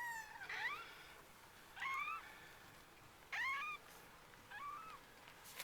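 Two-week-old RagaMuffin kittens mewing: about five short, high, arching cries spread over a few seconds. A brief click near the end.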